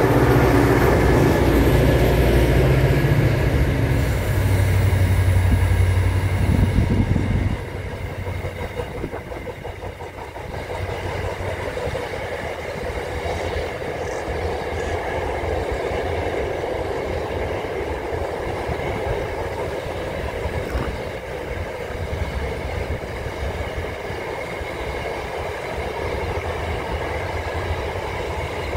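Freight train passing: the diesel locomotive's engine drones loudly for the first seven or so seconds as it goes by, then the engine sound drops away suddenly and the container wagons keep rolling across a railway bridge with a steady rumble and clatter.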